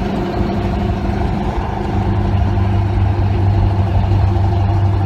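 1967 Chevy C20 pickup's engine and exhaust running under way through its MagnaFlow Rumbler mufflers, heard from the truck's bed: a steady low drone that grows a little louder about two seconds in.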